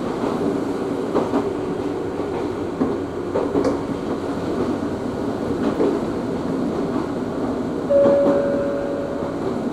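Ohmi Railway train heard from inside the carriage, running along the line with a steady rumble. Now and then a wheel knocks over a rail joint. About eight seconds in there is a short steady tone lasting just over a second.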